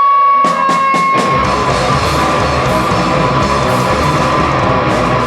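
Live rock band starting a song: a held electric guitar note rings with a few drum hits, then about a second and a half in the full band comes in with distorted guitars, bass and drums.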